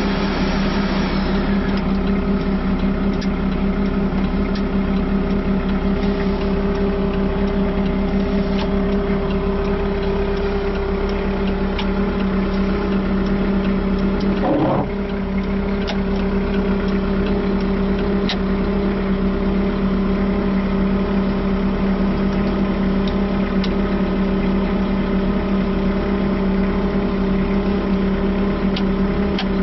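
JCB 515-40 telehandler's diesel engine idling steadily with an even hum, wavering briefly about halfway through.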